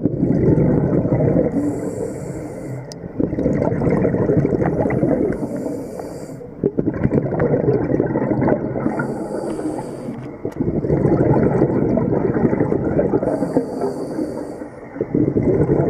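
A scuba diver breathing through a regulator, heard underwater. Short inhale hisses alternate with long rushing bursts of exhaled bubbles, about four breaths in all.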